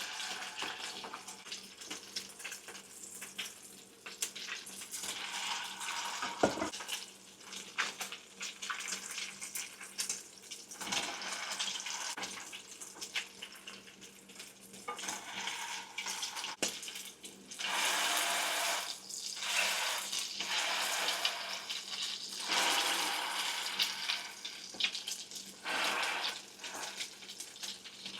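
Water running from a kitchen tap in on-and-off spells, with a single knock about six and a half seconds in.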